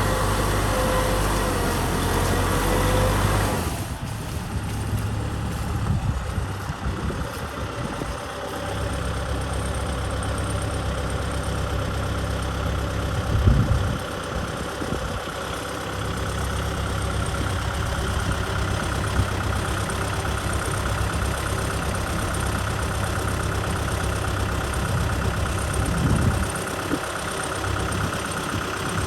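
Kubota M6040 SU tractor's diesel engine running steadily while plowing. The sound changes abruptly about three and a half seconds in, and there are a few short louder thumps around the middle and near the end.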